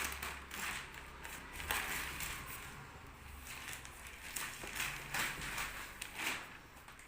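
Packaging being cut and pulled open: an uneven run of rustles, crinkles and scrapes.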